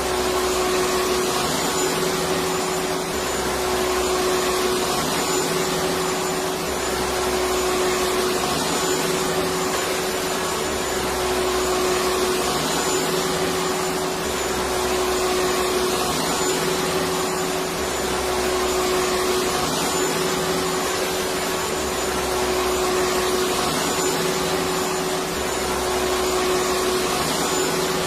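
Electric vacuum cleaner running steadily: a constant hiss with a steady hum, and a low rumble that comes and goes every few seconds.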